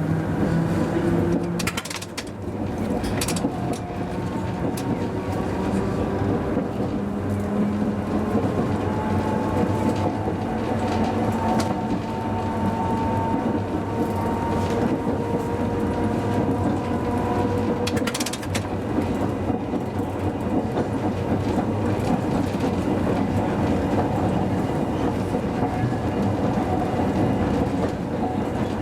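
Hakodate city tram car No. 530 running, heard from its driver's cab: a steady wheel-on-rail rumble under the whine of the traction motors, which shifts in pitch. A few sharp clacks come as the wheels cross rail joints, two near the start and one about two-thirds of the way through.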